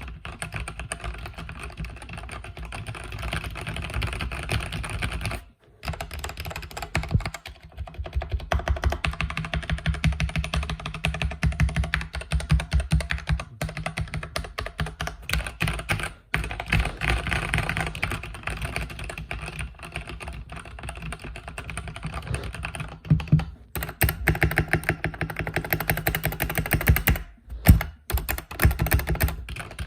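Fast continuous typing on a mechanical keyboard with red (linear) switches, a dense stream of key clacks broken by brief pauses a few times.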